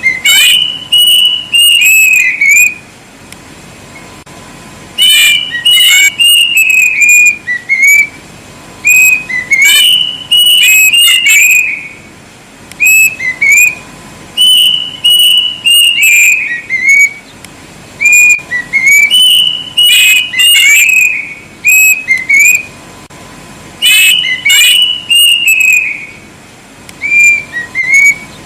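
Kedasih cuckoo singing loud, clear whistled phrases. Each phrase is a quick run of slurred notes lasting two or three seconds, and the phrases repeat every few seconds.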